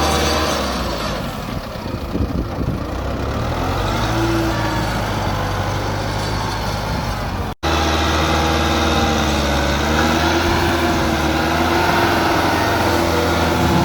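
Tractor engine running steadily, with a low hum and a pitch that wavers slightly. The sound cuts out for an instant about halfway through, then carries on.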